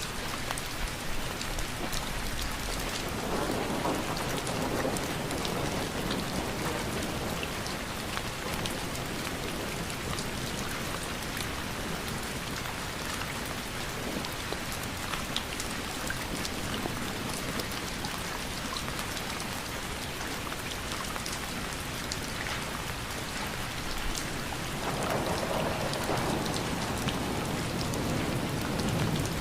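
Steady rain falling, with many small drops ticking through a constant hiss. It swells fuller and louder twice: a few seconds in, and again for the last few seconds.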